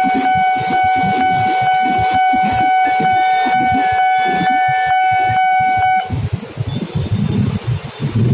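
A loud, steady horn tone sounds at the railway level crossing and cuts off abruptly about six seconds in, over a rough low rumble of passing traffic or train. After the tone stops, motor traffic noise rises.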